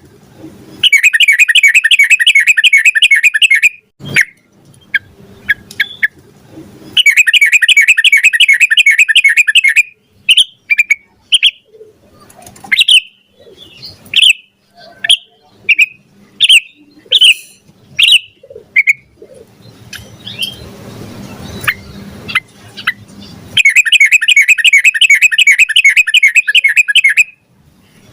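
Yellow-vented bulbul (trucukan) singing: three long bouts of fast, repeated bubbling notes, with short separate chirps between the second and third bouts.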